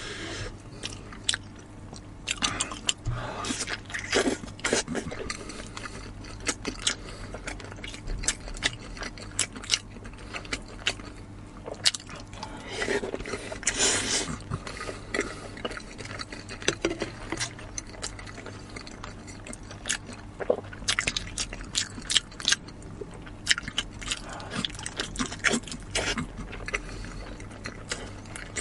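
Close-up eating sounds of braised pork nose: sticky, wet chewing and biting with many short mouth smacks and clicks. About halfway through comes a longer sucking sound as sauce is licked off the fingers.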